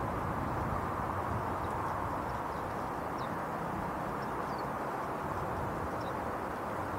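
Steady background rumble of outdoor ambient noise, with faint, brief high chirps from a small songbird scattered through it every second or so.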